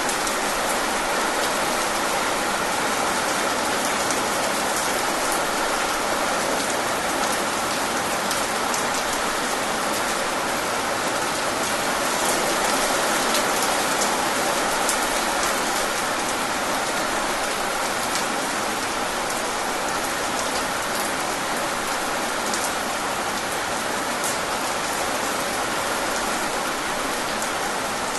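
Steady rain falling, with individual drops ticking sharply through the even hiss.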